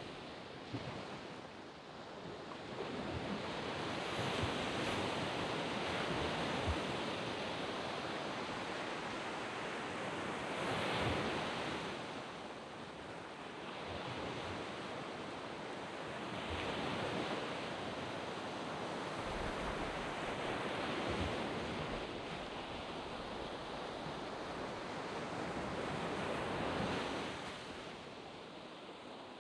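Waves breaking and washing up a sand beach, the surf swelling and easing about every five or six seconds.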